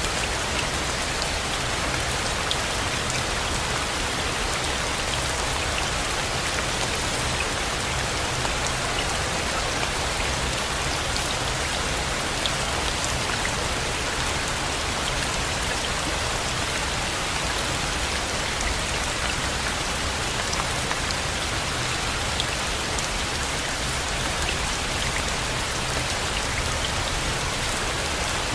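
Steady rain falling without a break, with scattered individual drops ticking over it.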